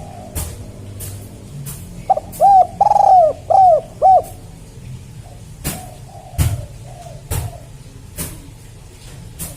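Spotted dove (tekukur) cooing: a loud phrase of about five coos, the middle one longer, from about two seconds in, then fainter coos. Sharp clicks sound now and then throughout.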